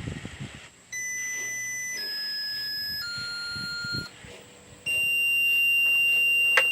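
Dashboard warning chime of a Blue Bird Vision school bus at key-on. Three steady tones of about a second each step down in pitch, then a louder continuous high warning beep starts about five seconds in.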